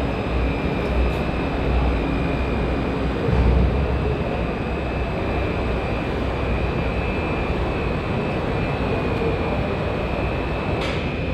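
Glass tempering furnace line running: a steady machinery din with a constant high whine over a low rumble.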